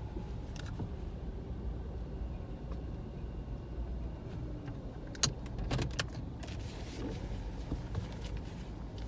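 Car running at low speed, a steady low rumble heard from inside the cabin, with a few sharp clicks and rattles about five seconds in.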